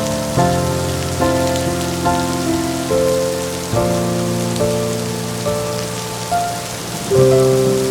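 Steady rain hiss with slow, soft instrumental music over it: held notes or chords, a new one starting about once a second, with a louder one near the end.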